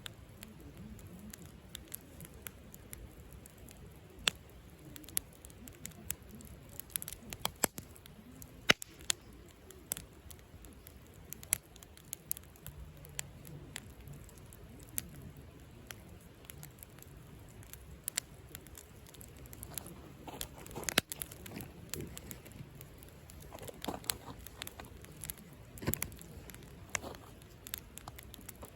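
Wood campfire burning in a fire stand, crackling and popping irregularly, with sharp snaps here and there over a low soft rush of flame.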